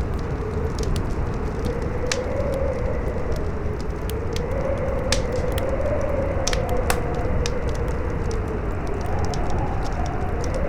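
Campfire crackling with scattered sharp pops over a steady roar of strong wind, which howls in a wavering tone that slowly rises and falls.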